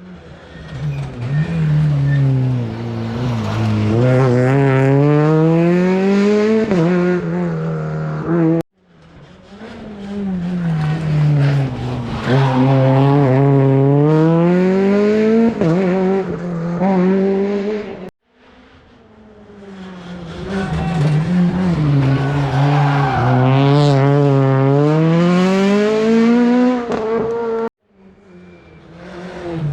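Three rally cars at full stage speed, one after another in separate clips that cut off suddenly. Each car's engine drops in pitch and then climbs hard as the car approaches and passes, with some tyre squeal.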